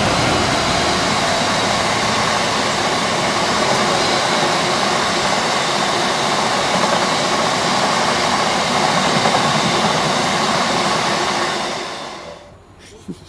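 Diesel-hauled freight train passing at speed: the locomotive and then a string of box wagons rushing over the rails in a loud, steady roar of wheel and rail noise that falls away about twelve seconds in. A single sharp click follows shortly after.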